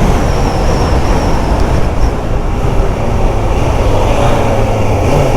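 Suzuki GSX600F's inline-four engine running steadily, a sound called nice.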